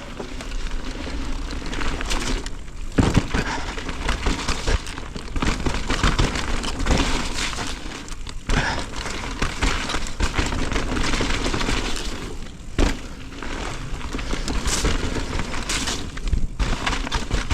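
Mountain bike rolling fast down a dirt and mud trail: steady rushing tyre and rattle noise, with sharp knocks as it hits bumps, the heaviest about three seconds in and another near thirteen seconds.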